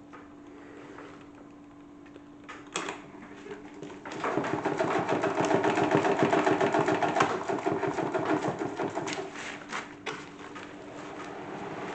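Salad spinner converted into a toy washing machine: a faint steady hum with a click about three seconds in, then from about four seconds a loud, fast rattling as it spins with its load clattering inside, easing off near ten seconds and building again.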